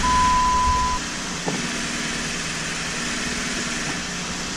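2012 Jeep Wrangler JK's 3.6-litre V6 idling with the clutch pedal being pushed in, which should silence the ticking of a worn throwout bearing. A steady high beep sounds for the first second, then the overall sound drops and the engine idles on steadily and more quietly.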